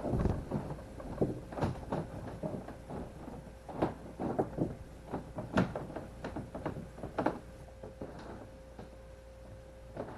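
Irregular knocks, clicks and scrapes of hands working cable and rigging gear inside a kayak hull. The knocks thin out near the end.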